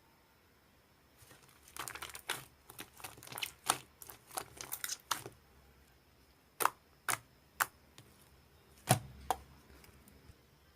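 Slime being handled: about a second in, several seconds of rapid crackling clicks and pops, then five separate sharp pops.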